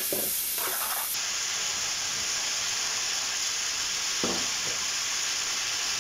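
Chicken pieces frying in hot oil in a karahi: a steady sizzle, brightest in the first second, while a slotted metal spatula stirs them, with a couple of short spatula scrapes about four seconds in.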